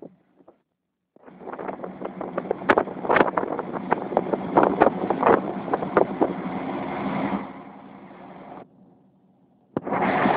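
Scania 113 truck's straight-six diesel engine running on the move, with wind on the microphone. The sound starts about a second in and drops away to a low murmur about three seconds before the end.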